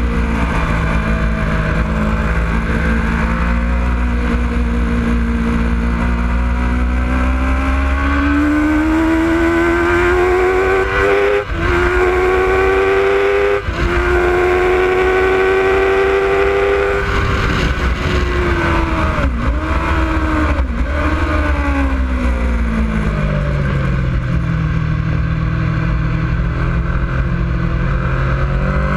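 Sport motorcycle engine heard from on board, accelerating hard with two quick upshifts, then dropping in pitch with two brief blips on the way down as the bike slows into a corner, and picking up again near the end.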